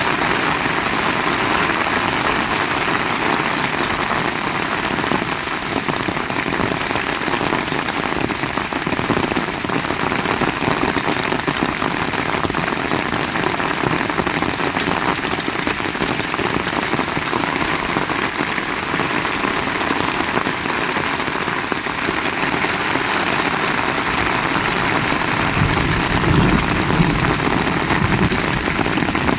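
Heavy rain falling steadily, a dense even hiss of drops, with a low rumble coming in near the end.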